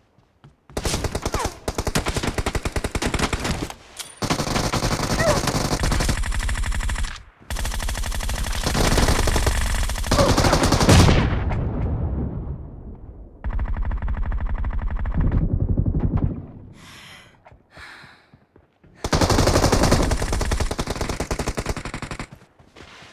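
Rapid automatic gunfire in about five long bursts of several seconds each, separated by short pauses.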